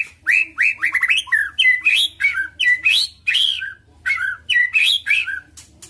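White-rumped shama (murai batu) singing a fast run of slurred, downward-sliding whistled notes mixed with sharp clicks, pausing briefly about four seconds in before another phrase.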